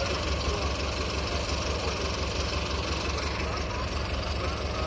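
Powertrac tractor's diesel engine running steadily at low revs, an even low pulse that does not change.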